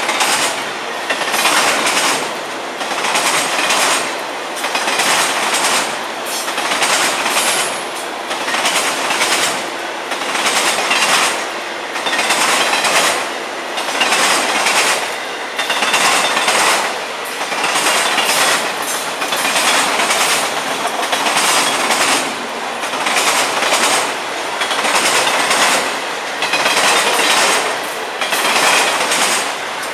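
Florida East Coast Railway freight cars rolling past on the rails, the wheels beating over rail joints in a steady clickety-clack pulse a little more than once a second.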